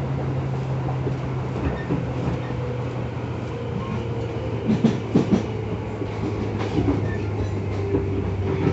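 Running sound inside a Tobu 10000 series field-chopper-controlled electric train: a steady low motor hum that drops in pitch about two seconds in as the train slows for a station. A short cluster of wheel clacks over rail joints comes around five seconds in.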